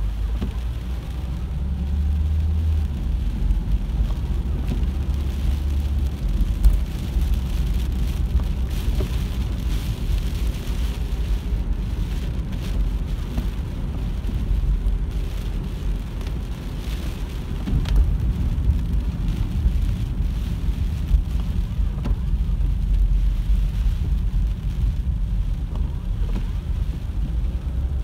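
Car driving on a rain-soaked road, heard from inside the cabin: a steady low rumble of engine and tyres with the hiss of rain and road spray.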